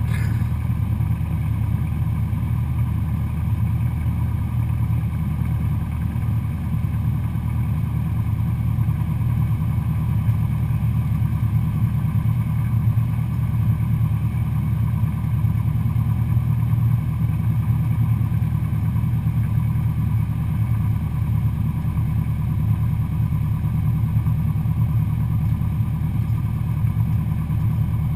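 Cessna 172SP Skyhawk's four-cylinder Lycoming engine and propeller running in a steady, unchanging drone.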